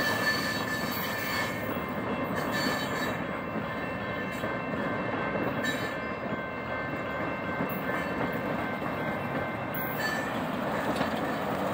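Freight train's cars rolling over the rails with a steady noise and a high wheel squeal that fades after the first couple of seconds. A car drives over the crossing near the end.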